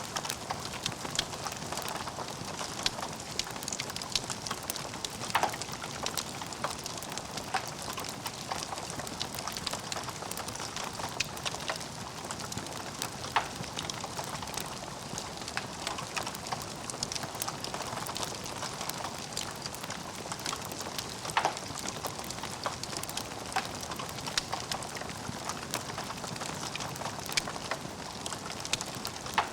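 Logs burning in a fireplace: a steady crackling hiss full of small sharp snaps, with a few louder pops spread through.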